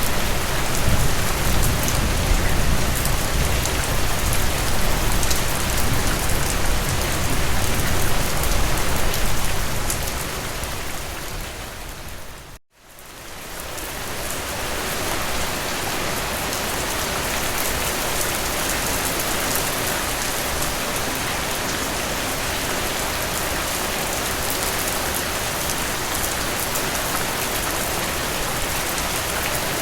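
Steady rain falling through a forest, with a low rumble underneath for the first ten seconds or so. About twelve seconds in the rain fades down to a moment of silence, then fades back up and runs on steadily.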